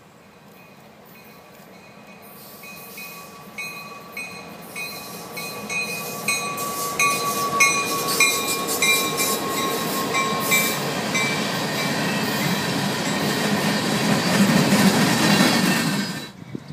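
BNSF freight train with diesel locomotives approaching and passing close by, its engines running and steel wheels rolling on the rails, followed by hopper cars. As it nears, a steady tone and a sharp tick repeating about three times a second sound over the rising rumble. The rumble is loudest as the cars roll past, then cuts off suddenly near the end.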